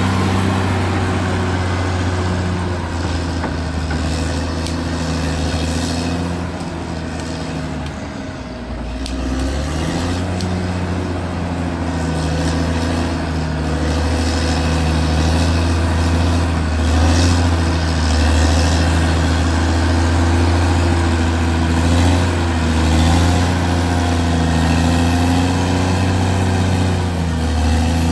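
Caterpillar D6R XL bulldozer's diesel engine running loud and steady under load as the machine works. About a third of the way in the engine note drops briefly, then pulls back up.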